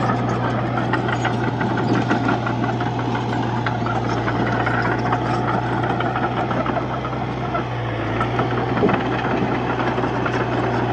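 Diesel engine of a Komatsu D31-P bulldozer running steadily, its note dipping briefly about two-thirds of the way through before picking back up.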